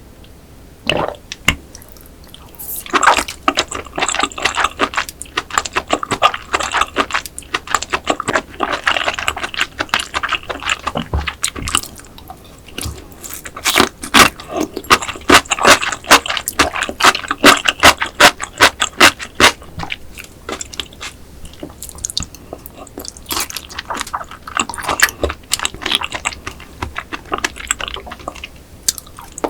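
Close-miked chewing of a raw rock oyster sashimi salad, in bouts of many quick clicking mouth sounds with a few short pauses between mouthfuls.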